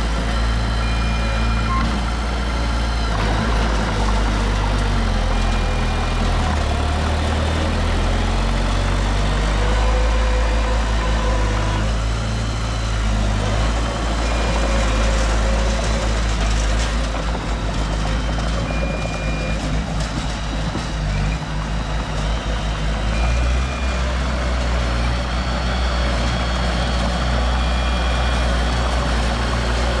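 Heavy diesel construction machinery running steadily. A reversing alarm sounds short, thin beeps every few seconds.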